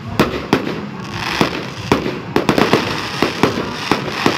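Aerial fireworks display: shells bursting in quick, irregular succession, sharp bangs with crackling between them, the bangs coming faster from about halfway through.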